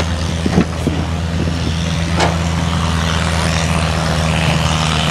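Tractor engine running at a steady speed, with a few short knocks about half a second in and a sharp click a little after two seconds.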